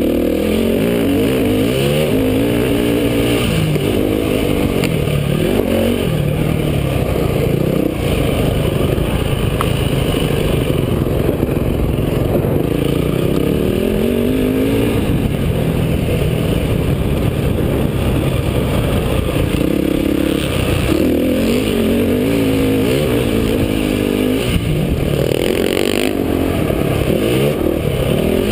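Motocross dirt bike engine revving hard and easing off again and again under throttle and gear changes, its pitch rising and falling every second or two.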